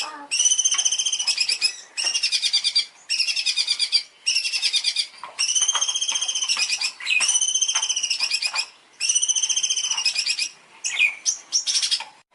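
A songbird singing a run of high, fast-warbling trilled phrases, each about a second long, with brief pauses between them.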